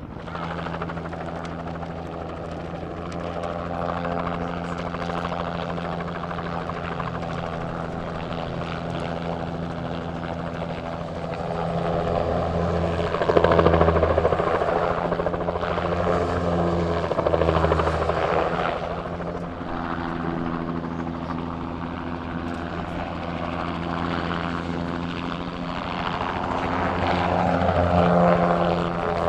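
Helicopter running with a steady droning engine and rotor tone that swells, loudest about 13 seconds in and rising again near the end.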